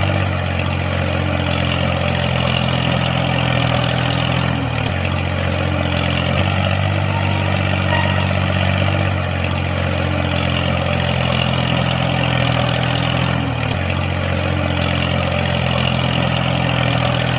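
Small engine of a mini tractor running steadily under load, its pitch shifting slightly a few times.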